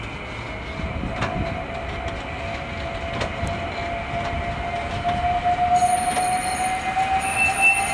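CAF Urbos AXL tram running on its rails, its whine slowly rising in pitch, with a few sharp knocks from the track.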